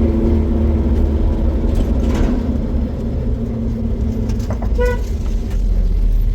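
Motor vehicle running with a steady low rumble, and a single short horn toot about five seconds in.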